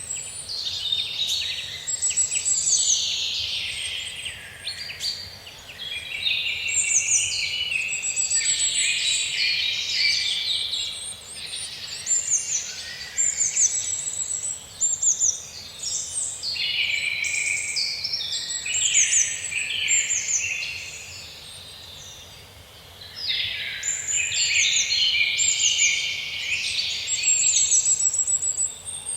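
A dense chorus of several songbirds singing at once: overlapping chirps, warbles and quick high trills, easing off briefly about two-thirds of the way through before picking up again.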